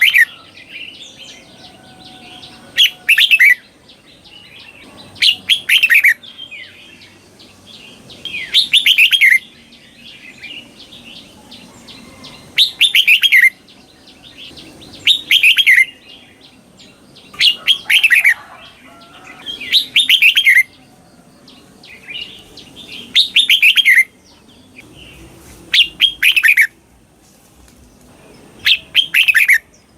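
Red-whiskered bulbul singing its short fluty song phrases, each made of quick falling notes and often given as a doubled phrase, repeated every two to three seconds.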